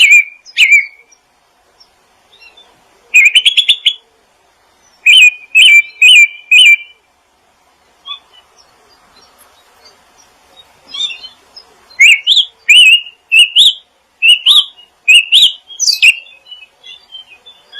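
Songbird singing loud, separate phrases of chirps: a quick trill about three seconds in, four evenly spaced notes a little later, and a run of rising, whistled notes in the last third.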